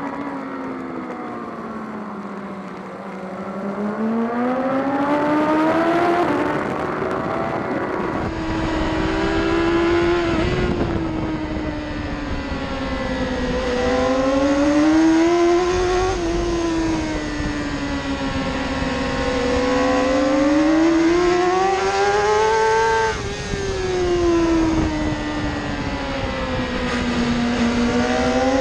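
BMW S1000RR's inline-four engine on track, heard onboard, its revs climbing and falling again and again as the bike accelerates and slows through the corners. From about eight seconds in a steady rushing noise, typical of wind over the bike at speed, runs under the engine.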